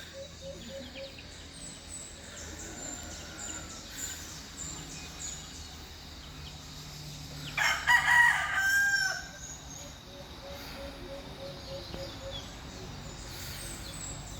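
A rooster crowing once, about eight seconds in, the loudest sound here. Behind it, short high chirps repeat in runs.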